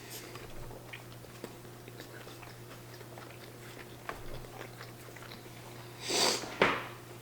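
Chewing and biting of chicken nuggets, with small wet mouth clicks over a steady low hum. About six seconds in comes a short rush of noise, then a sharp click.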